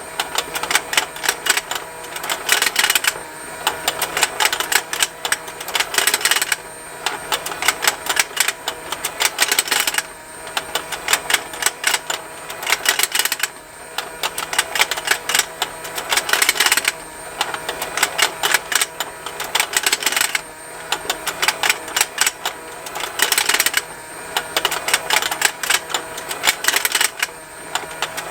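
Battery-powered plastic fishing game turning: its small motor runs with a faint steady hum under continuous rapid plastic ticking and snapping. The clicking swells into louder clusters about every three and a half seconds.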